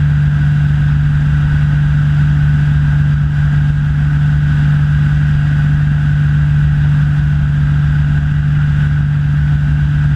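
Rans S6 light aircraft's piston engine and propeller running steadily in flight, a loud constant drone with a low hum and a faint high whine, heard from inside the cockpit.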